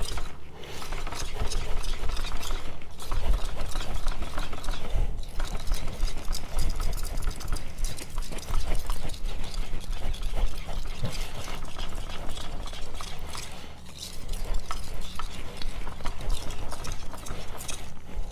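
A steel knife blade stroked back and forth on a wet whetstone in freehand sharpening: a continuous scraping, stroke after stroke, with a few short pauses.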